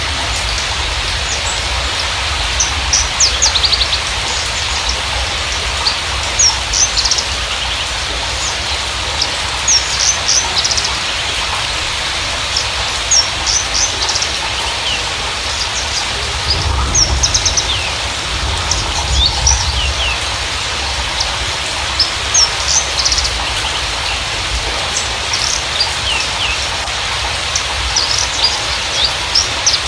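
Javan bush lark (Mirafra javanica parva) song: clusters of quick, high chirps and short trills, repeated every second or two. Under it runs a steady noisy hiss and a low rumble that swells about halfway through.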